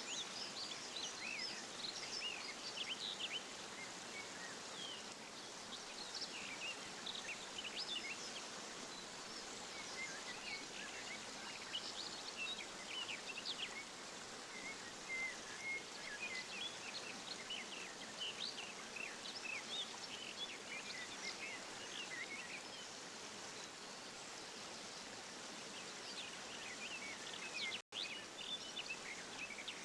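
Many small aviary finches chirping and twittering in short, high calls over the steady rush of running water from an aviary waterfall.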